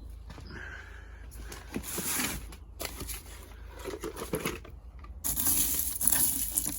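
Irregular rustling and crinkling as hands work potting compost to make a planting hole, louder and busier near the end.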